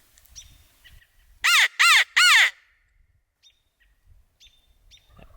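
A crow cawing three times in quick succession, loud and close, about a second and a half in. Faint, distant high bird calls come and go around it.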